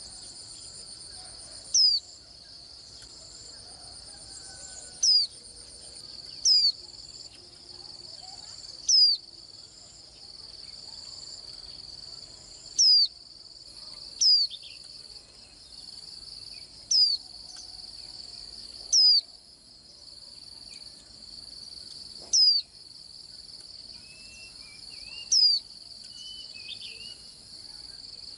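Japanese white-eye giving short, sharp down-slurred call notes, about ten of them spaced one to three seconds apart, over a steady high chirring of insects. A few softer twittering bird notes come near the end.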